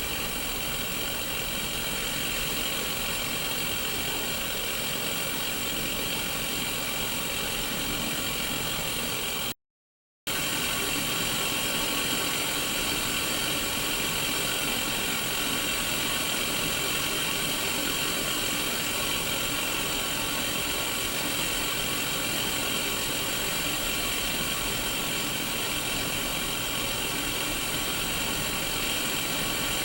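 Steady static hiss from an untuned Sony Mega Watchman mini CRT television, a constant even rush of noise. It drops out completely for under a second about ten seconds in, then resumes unchanged.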